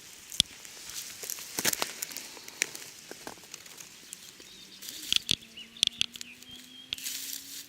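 Rustling and crackling in dry leaves and undergrowth, with scattered sharp snaps and clicks, as something moves about in the ground litter. Faint bird chirps come in briefly about two thirds of the way through.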